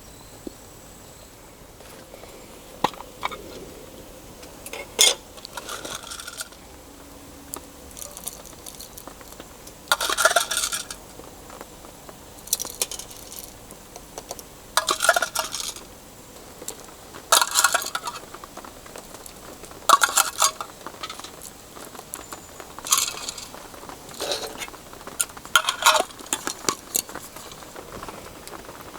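Metal cooking utensils clinking and scraping against metal cookware in short bursts every two to three seconds, with sharp ringing clinks.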